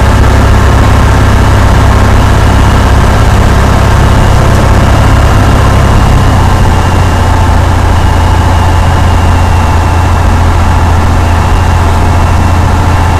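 Cessna 172 piston engine and propeller running steadily, a loud continuous drone that steps down slightly in pitch and level about halfway through.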